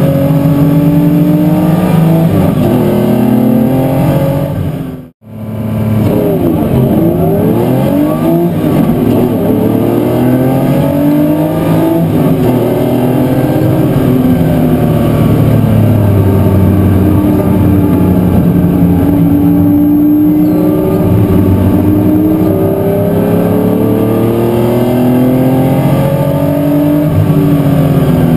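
Historic muscle race cars' engines at racing speed, their notes rising and falling repeatedly as they rev, lift and change gear. The sound drops out briefly about five seconds in.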